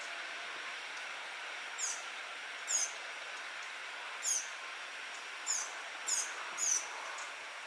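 Birds calling: six short, high chirps scattered over a few seconds, over a steady background hiss.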